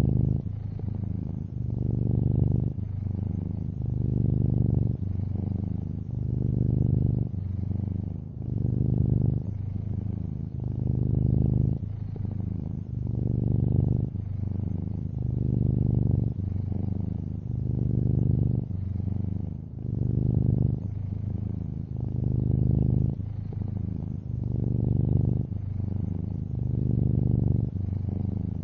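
A long-haired orange tabby cat purring close up, a low steady buzz that swells and eases with each breath, about one breath cycle every two seconds.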